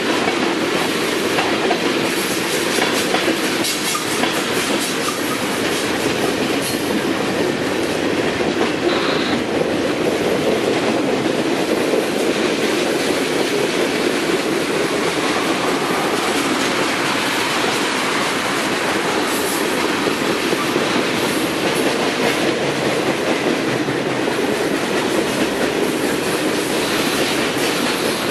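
Norfolk Southern freight train's cars rolling past: a steady, unbroken rush of steel wheels on rail with some clicking over the rail joints.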